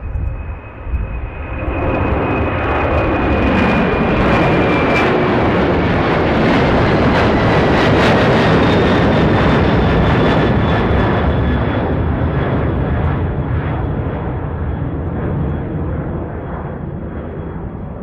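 Jet airliner taking off and passing: engine noise builds over the first couple of seconds, peaks about eight seconds in and then slowly fades, with a high whine that drops in pitch as it goes by. Strong gusty wind rumbles on the microphone throughout.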